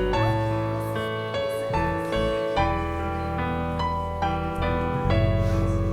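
Piano playing an instrumental interlude of a slow worship song, with a new note or chord about every half second over held low bass notes.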